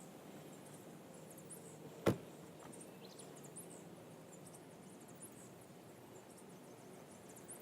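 Faint outdoor ambience of many short, very high-pitched chirps from small animals, scattered irregularly, with a single sharp click about two seconds in.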